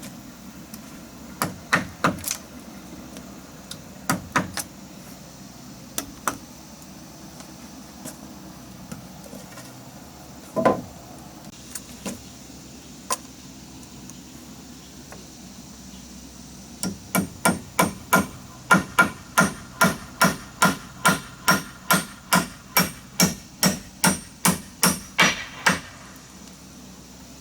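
Hammer blows: a few scattered strikes with pauses between them, then a fast, even run of about two dozen blows, close to three a second, in the last ten seconds.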